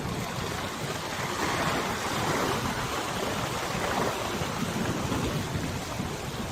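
Waves on a wide river washing and splashing in the wind, with wind rumbling on the microphone. The rush of water swells about a second and a half in and eases off after about four seconds.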